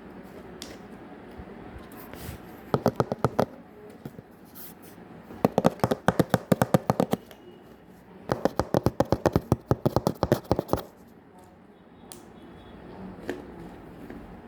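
Slime being squeezed and worked in the hands, giving rapid runs of little popping clicks, about ten a second, in three bursts.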